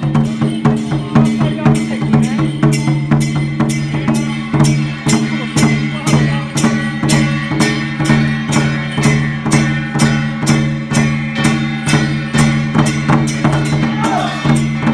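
Taiwanese temple ritual music: drum and wood-block beats at a steady pace of about three a second, over a sustained droning pitch.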